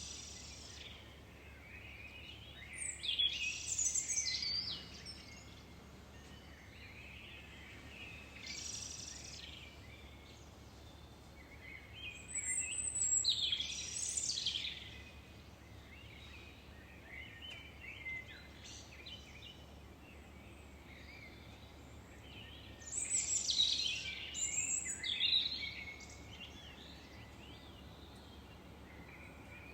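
Songbirds singing in short warbling phrases of one to three seconds, about five of them with pauses of several seconds between, over a steady faint background hiss.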